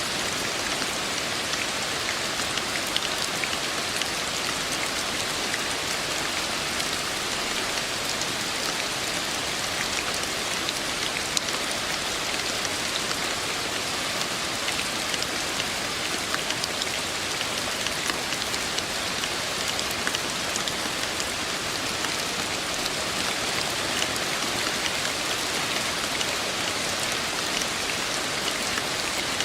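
Steady rainfall, a constant hiss of rain with many small drop ticks scattered through it.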